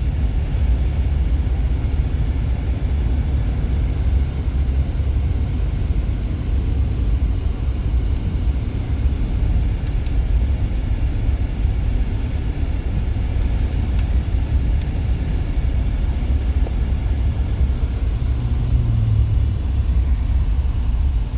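Steady low rumble of a Jeep's engine and tyres, heard from inside the cabin while driving on a snowy road.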